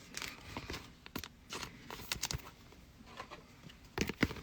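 Trading cards being handled and slid against one another: scattered soft clicks and rustles, with a sharper pair of clicks near the end.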